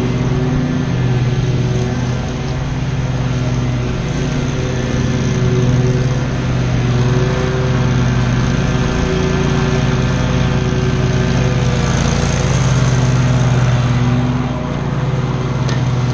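Commercial lawn mower engine running steadily at high throttle while cutting tall grass, its pitch and level dipping briefly a few times as it takes on load.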